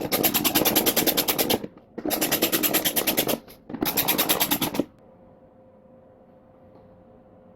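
A powered wrench running in bolts: three bursts of rapid, even clattering, each a second or so long, stopping about five seconds in and leaving a faint steady hum.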